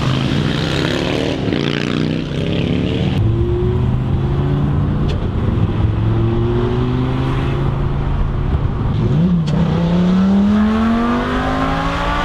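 Lamborghini Gallardo's V10 engine running under way, holding a steady pitch through the middle, then dipping and climbing steadily in pitch as the car accelerates hard over the last few seconds.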